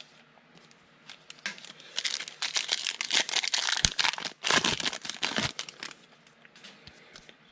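A trading card pack's foil wrapper being torn open and crinkled in the hands. The crackling comes in a dense run of sharp crinkles from about two seconds in to past the middle, with lighter handling before and after.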